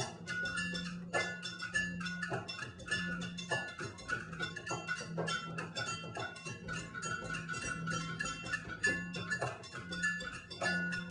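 Rock band playing live: a fast, steady beat of drum and cymbal strokes over a pulsing bass note, with held higher melody notes on top.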